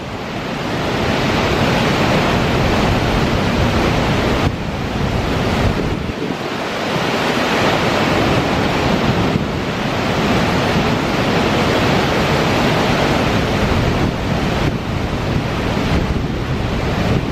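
Dettifoss waterfall, a glacial river dropping over a 44 m cliff, giving a loud, steady rush of falling water with a deep rumble underneath. Wind buffets the microphone.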